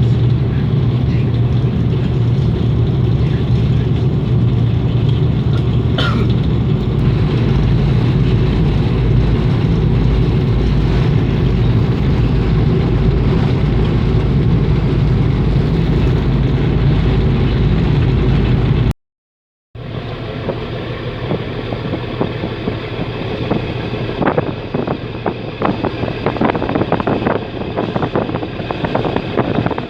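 Passenger ferry's engines droning steadily with a strong low hum. After a brief dropout about two-thirds in, a quieter, gusty rushing of wind on the microphone over the boat's running noise.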